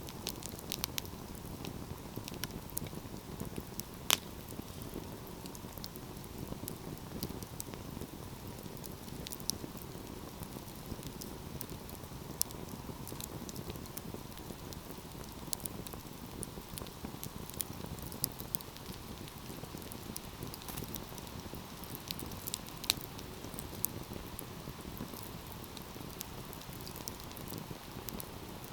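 Wood fire burning with a steady low rush and frequent small crackles and pops scattered irregularly, one sharper pop about four seconds in.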